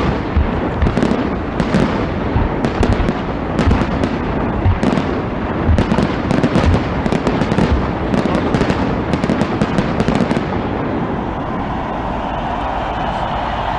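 Fireworks going off in a dense run of sharp bangs and crackles, several a second. The bangs stop about ten seconds in, leaving a steady noise.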